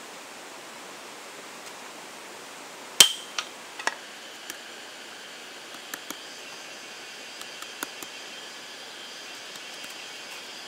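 Steady rain falling, an even hiss, with a sharp clink that rings briefly about three seconds in and a few lighter clicks and taps scattered after it.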